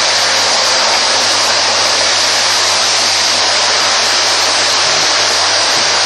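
Vacuum cleaner running steadily: an even, loud rushing hiss strongest in the high range, over a faint low hum.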